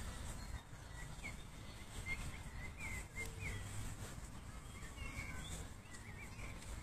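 Small birds chirping in short, quick repeated notes over a steady low outdoor rumble.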